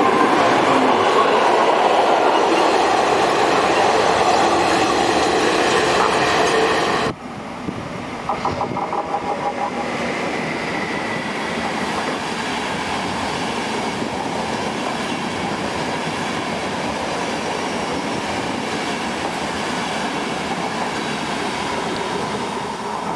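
Passenger coaches rushing past close by at speed with wheel and rail noise, cutting off suddenly about seven seconds in. A second electric-hauled passenger train, a red ÖBB locomotive with EuroCity coaches, then runs past on the far track with a steadier, quieter rumble and some wheel clatter.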